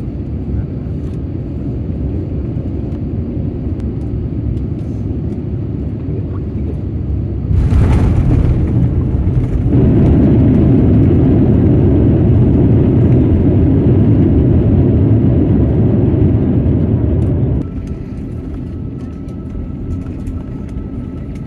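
Steady low rumble of an Airbus A350 airliner in motion. About a third of the way in it swells suddenly much louder, holds for about ten seconds, then drops back to the earlier level.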